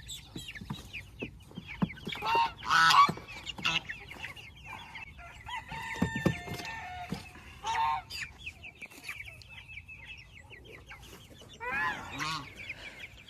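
Chickens clucking and young birds peeping continuously, with louder drawn-out calls about two seconds in, near the middle and near the end.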